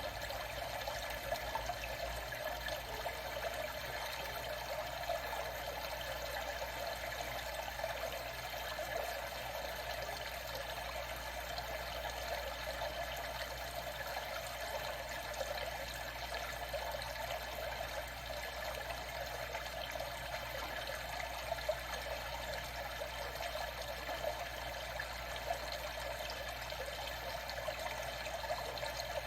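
Water trickling and running steadily, an even rush with small splashy flickers and no breaks.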